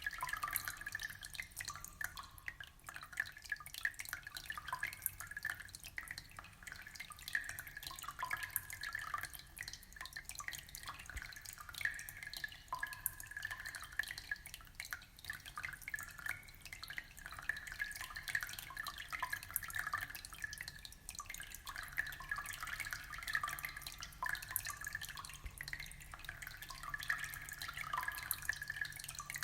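Aquarium water trickling and bubbling: a steady, unbroken patter of small drips and splashes.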